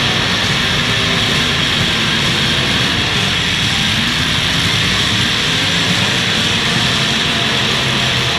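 Demolition derby cars' engines running loudly and steadily, a dense engine drone with no distinct crashes.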